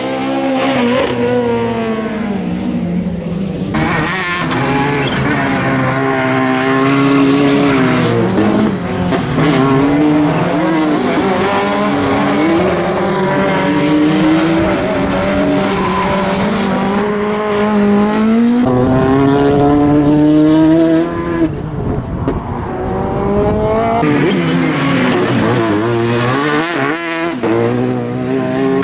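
Citroën DS3 R3 rally car's engine revving hard and easing off again and again through a slalom course, with quick up and down shifts, and tyres squealing in the corners.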